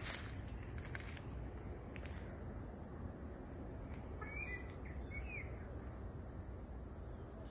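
Outdoor ambience with a steady low rumble and a single click about a second in. A bird gives two short chirps a little past the middle.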